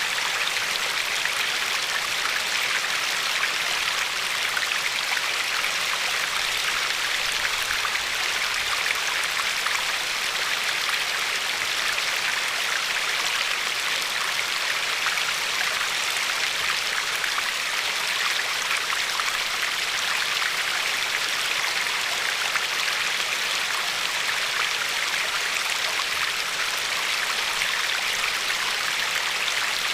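River water flowing and lapping over a pebble shore, a steady, even hiss of running water.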